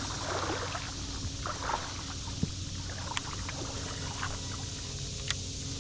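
Steady rush of flowing creek water, with a couple of sharp little clicks about three and five seconds in.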